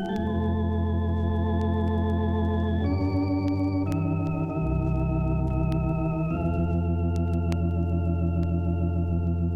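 Organ music: sustained chords with a wavering vibrato over a steady bass line, moving to a new chord three times.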